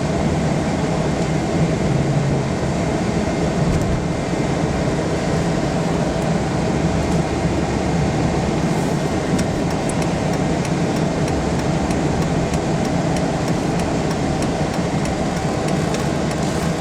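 Steady in-cabin sound of a 2004 Dodge Ram 1500's 5.7-litre Hemi V8 running, a low hum under cabin noise. From about halfway through, a light, regular ticking runs alongside it.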